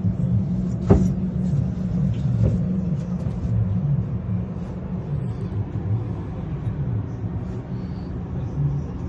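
A steady low rumble, with a sharp knock about a second in and a fainter knock a second and a half later.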